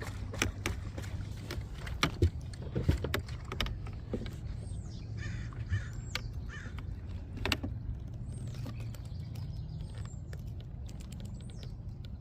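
Several harsh bird calls from about four seconds in, over a low steady hum, with sharp clicks and knocks in the first few seconds.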